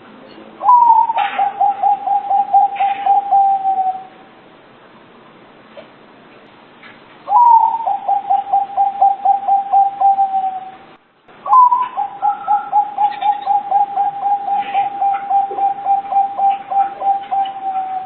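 Zebra dove (perkutut) cooing: three bouts of its song, each opening on a slightly higher note and running into a fast, even string of short coos at a steady pitch, the third bout the longest.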